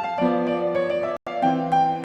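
Background music: piano melody with sustained notes. The music cuts out for an instant a little over a second in, then carries on.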